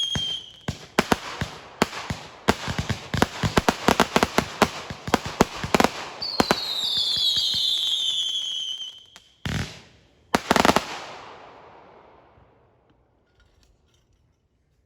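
Fireworks going off: a rapid, irregular run of sharp bangs and crackles, then a whistle falling in pitch. Two heavier bangs follow, and the sound dies away.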